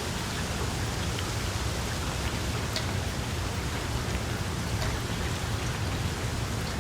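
Small wood fire burning in a fireplace: a steady hiss and low rumble with a few scattered crackles and pops.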